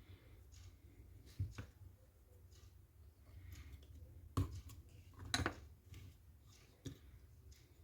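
Faint scattered clicks and light knocks of small airsoft rifle parts being handled and set down during disassembly, the two clearest about four and a half and five and a half seconds in, over a faint low hum.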